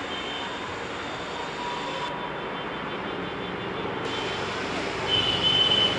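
Steady, slowly swelling rumble of an approaching train hauled by a WAP-7 electric locomotive, still some distance off. A short shrill tone sounds about five seconds in and is the loudest moment.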